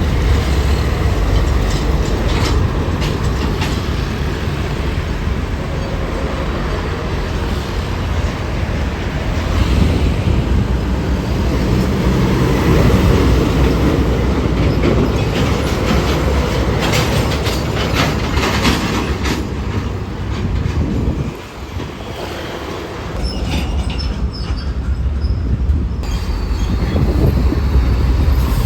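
Loud, continuous rumble of heavy vehicles passing close by, with bursts of rattling clicks. The rumble dips briefly about three-quarters of the way through.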